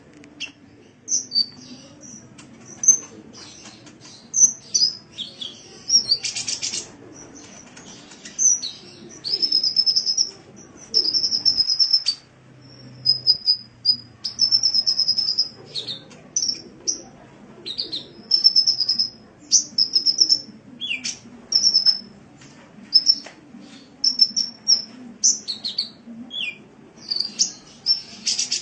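Sunbird song: rapid, thin, high-pitched chirps and short trills in quick phrases about once a second, over a faint low hum.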